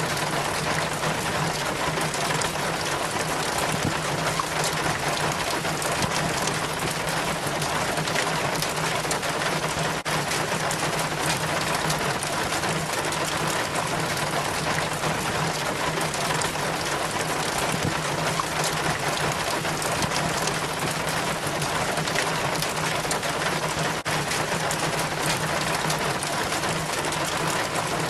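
Rainwater trickling and splashing down a rain chain from the gutter, a steady dense patter of drips with a faint low hum underneath.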